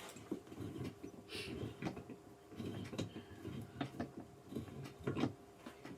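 Irregular small clicks, knocks and scrapes of gaming chair parts being handled while a screw is worked into its hole.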